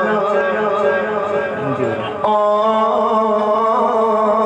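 A man singing a naat, drawing out long, ornamented held notes on a line of the verse. A fresh note begins a little after two seconds in.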